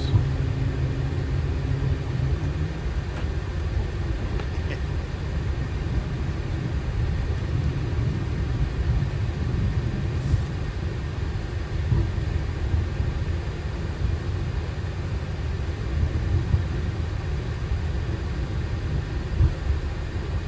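Steady low rumble of a Boeing 737 flight deck on the ground during taxi-in to the stand. A low hum in it fades out about two seconds in.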